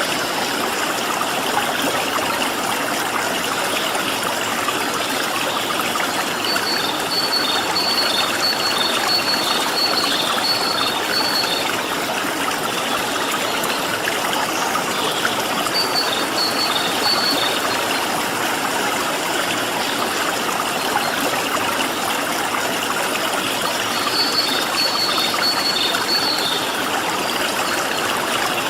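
Stream water flowing steadily. A small bird breaks in three times with a rapid series of high, repeated chirps.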